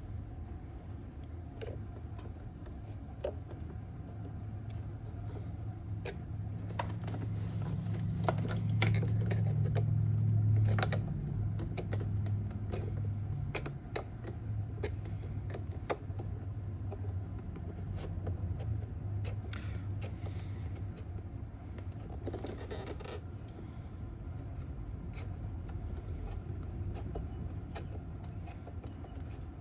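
A flathead screwdriver clicking and scraping against the plastic caster-wheel housing of a Roomba robot vacuum while the front wheel is pried up and dirt picked out, in scattered small clicks over a steady low hum.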